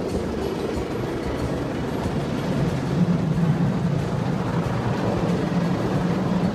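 Automatic car wash machinery running: a steady mechanical rumble whose low hum grows louder about two and a half seconds in.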